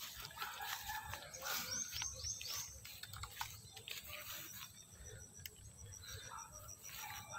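Outdoor ambience over a low rumble, with a bird giving four quick falling calls about two seconds in, and a faint high rapid ticking later on.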